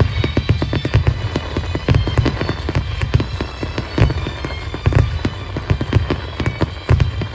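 Wide starmine fireworks barrage: a rapid string of booming shell bursts and launches, several a second, with music playing along.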